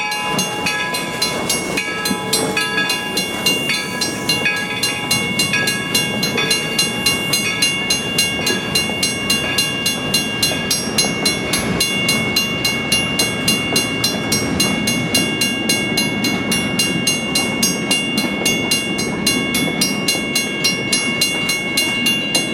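4-4-0 steam locomotive running past with its train: a regular rhythmic beat, about three a second, quickening slightly, over steady high-pitched tones.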